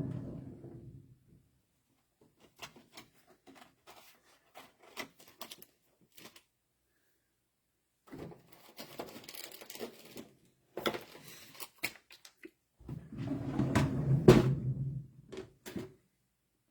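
Trading-card packs and cards being handled on a table: scattered clicks and light rustling, growing busier in the second half, with a louder burst of rustling and knocks near the end.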